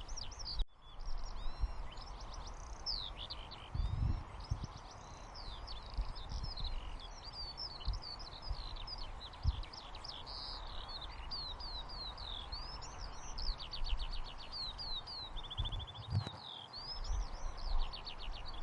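Recorded birdsong ambience: many small birds chirping, trilling and whistling in quick, overlapping phrases over a steady background hiss, with a few low thumps.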